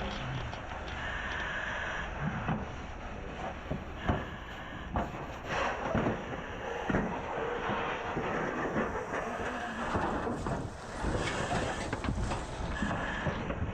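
Irregular knocks, scraping and crunching of the burnt structure of a house being pried apart with hand tools, over a steady rushing noise.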